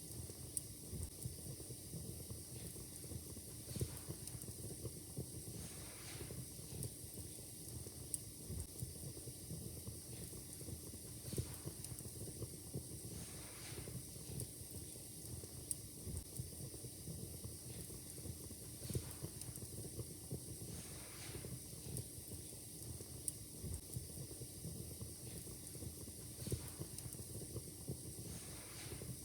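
Fire in a fireplace crackling: frequent small pops and snaps over a soft steady hiss, with a few sharper louder snaps every several seconds.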